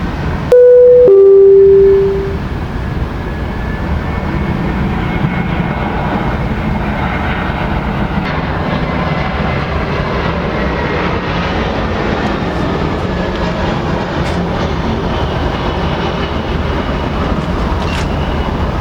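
A loud two-note horn blast, a higher note then a lower one, about a second and a half in all, over a steady low engine roar that runs on evenly afterwards.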